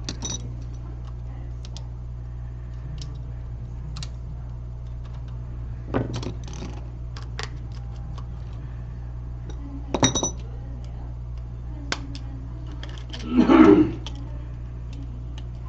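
Small metal repair tools clicking and clinking at a phone-repair bench, a handful of scattered taps, two of them with a brief metallic ring, over a steady low electrical hum. A louder, brief handling noise comes near the end.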